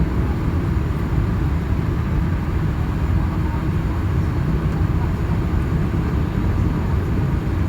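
Steady low rumble of a Boeing 787-9 airliner heard from inside the passenger cabin: engine and airflow noise in flight.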